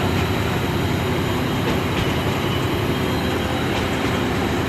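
Steady running noise of a ZCU-30 diesel locomotive, heard from inside its cab: the engine's hum mixed with the rumble of the train.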